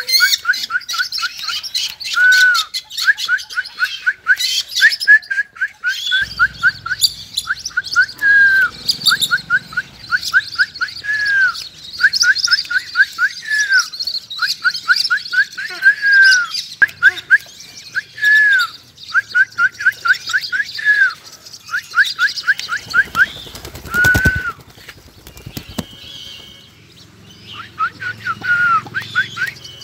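Caged birds calling over and over: runs of quick short notes, each run ending in a longer down-slurred note, with higher chirps mixed in. A short low pulsing sound cuts in about three quarters of the way through.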